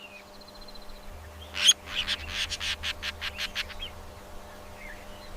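Budgerigar chirping: a quick run of short, high chirps starting about a second and a half in, the first the loudest, trailing off after a few seconds.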